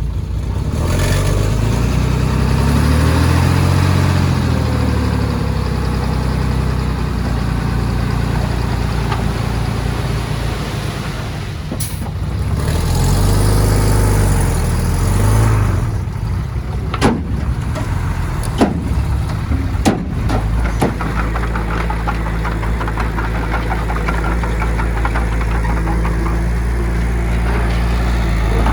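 Heavy earthmoving machine's diesel engine working under load, its pitch rising and falling twice as it revs up and settles. A few sharp metallic clanks come about two-thirds of the way through.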